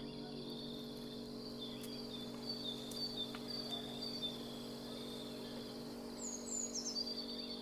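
Forest ambience: a steady high insect buzz with a run of short, high repeated chirps, then a few quick falling bird notes near the end, over a faint steady low hum.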